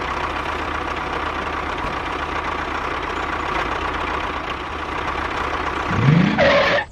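A small motor running steadily. About six seconds in, a short tone rises and then falls.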